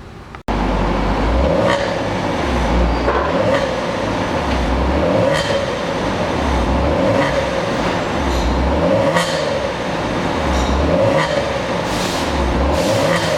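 Kia Stinger 3.3T with a twin-turbo V6 and an aftermarket chamber-type dual valve exhaust, heard driving at speed. The car's noise starts abruptly about half a second in and runs on steadily, with a low thump roughly every second and a half.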